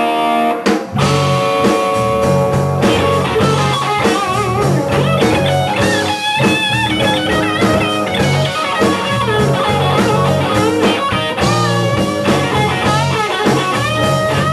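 Rock-and-roll band playing an instrumental intro: a chord rings out, then about a second in a driving, repeating electric guitar and bass riff starts, with wavering lead guitar lines over it.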